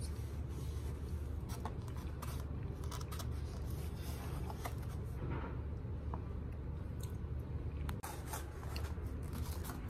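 Close-up chewing of soft food with many small wet clicks and smacks from the mouth, over a steady low hum.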